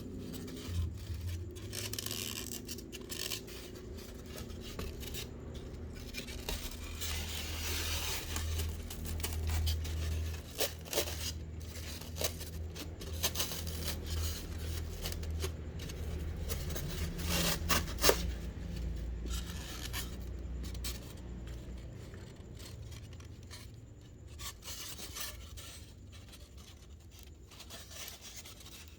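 Rubbing and scraping handling noise with scattered sharp clicks, over a low steady hum.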